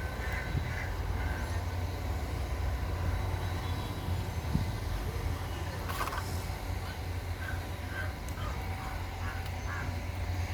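Diesel tractor engine running at a steady idle, with birds calling briefly near the start and again in a series of short calls in the second half; a sharp click about six seconds in.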